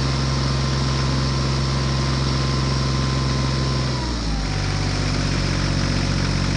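A motor running steadily with a constant hum, its pitch dropping slightly about four seconds in.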